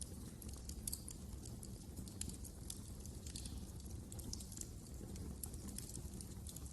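Wood fire crackling in a fireplace: frequent irregular pops and snaps over a steady low rumble of the flames.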